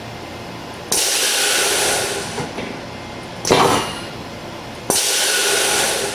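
Pneumatic brake unit of a Korea ITX railway vehicle venting compressed air: a loud hiss starts suddenly about a second in and lasts over a second, a shorter rush of air comes near the middle, and a second sudden hiss starts about five seconds in. A steady low hum runs underneath.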